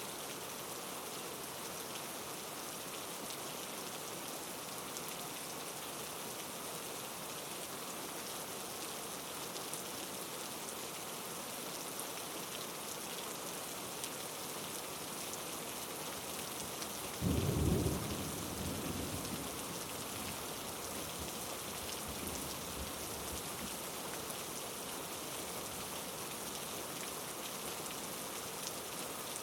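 Heavy rain falling in a steady hiss. About two-thirds of the way through, a sudden low rumble breaks in, the loudest thing here, and fades over a couple of seconds.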